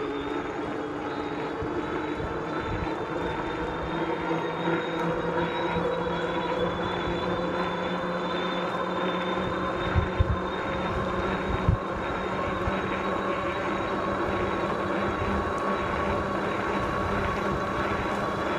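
Tonnerrey T8 electric bike under way: a steady electric-motor whine over wind and tyre noise, with a few short low thumps about ten and twelve seconds in.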